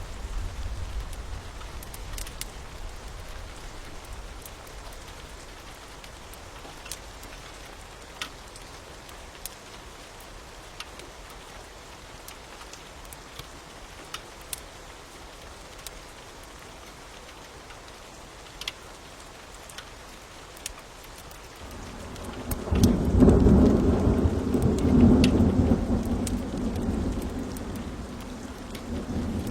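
Steady rain with scattered sharp crackles and pops from a wood fire. About two-thirds of the way in, a long low roll of thunder builds up and becomes the loudest sound, swelling again near the end.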